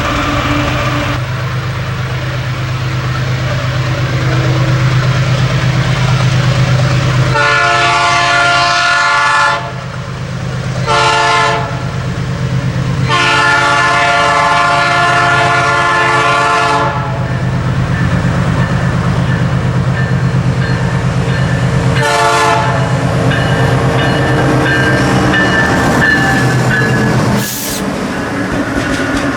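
Freight train hauled by GE Dash-series and EMD SD40 diesel locomotives running with a steady low engine drone. The locomotive horn sounds four times: a long blast, a short one, a longer one, then after a pause a brief toot.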